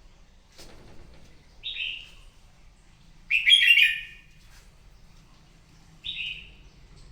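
Red-whiskered bulbul singing its fighting song in three short whistled phrases, the middle one longer and louder than the others.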